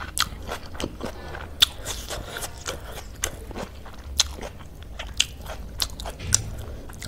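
Close-up chewing of stir-fried chow mein noodles, with irregular sharp, wet mouth clicks and smacks several times a second. Wooden chopsticks tap and scrape the plate as noodles are lifted.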